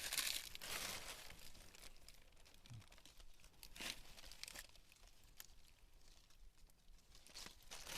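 Intermittent rustling and crinkling, loudest in the first second and again around the middle and near the end, with a few short sharp snaps: hands picking among the leaves and twigs of a wild pak wan tree.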